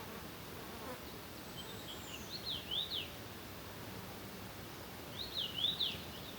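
A small songbird sings the same short phrase twice, about three seconds apart. Each phrase is a quick run of high notes sliding up and down, heard over a steady outdoor background hiss.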